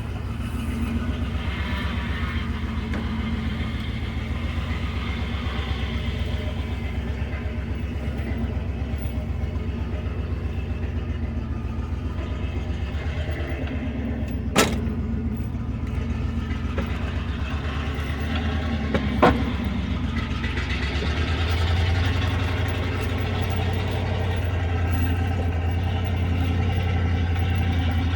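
Truck engine running steadily, with two sharp clicks about halfway through and the engine growing louder about three quarters of the way in.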